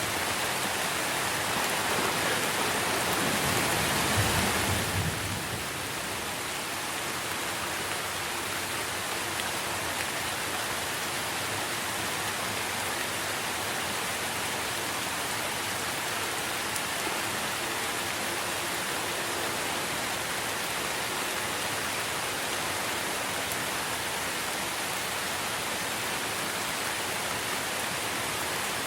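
Steady rain falling on trees, an even hiss. In the first few seconds a low rumble of thunder swells and dies away about five seconds in.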